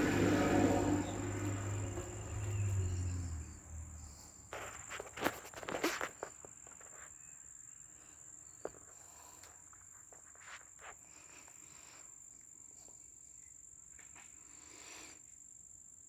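Steady high-pitched chirring of crickets, with a low rumble that fades out over the first few seconds and a short cluster of clicks and rustles about five seconds in.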